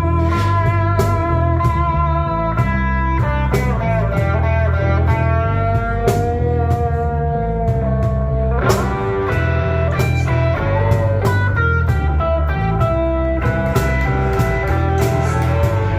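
Slow blues played by a band: sustained electric guitar lead lines over bass and drums, without vocals.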